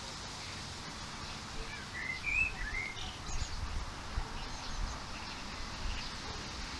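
Garden birds chirping: a short cluster of quick, wavering calls about two to three seconds in, with fainter high notes after, over a steady background hiss.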